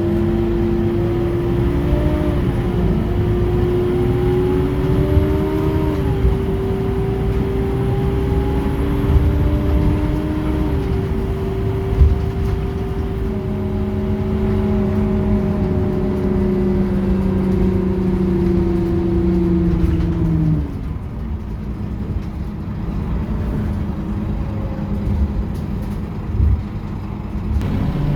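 Scania K230UB city bus's five-cylinder diesel engine and driveline running under way with a steady whine and some rising and falling engine pitch. About 20 seconds in the whine cuts off and the sound drops to quieter, lower running.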